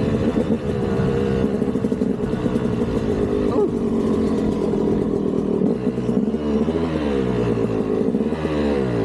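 KTM 200 two-stroke dirt bike engine running under load, its revs rising and falling again and again with the throttle.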